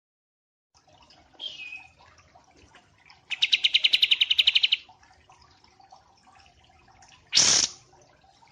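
Songbird calling: a short falling whistle, then a loud rapid trill of evenly spaced notes lasting about a second and a half, followed by a short sharp rush of noise near the end.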